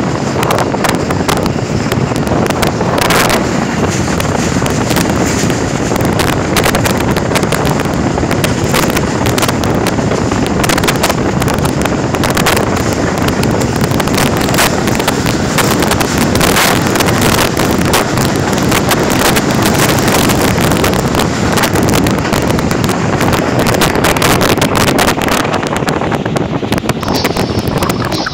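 Heavy wind buffeting on the microphone over the running noise of a passenger train at speed, recorded from its open door. A freight train hauled by a diesel locomotive passes close alongside on the adjacent track about midway.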